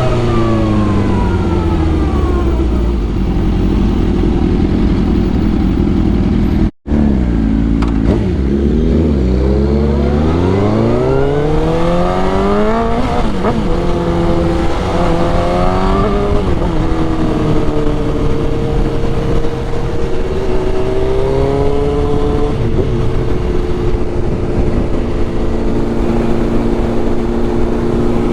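Sport motorcycle engine with wind rush while riding. The revs fall away over the first few seconds, the sound cuts out for an instant about seven seconds in, then the engine pulls up through rising revs before settling into a steady cruise for the last ten seconds or so.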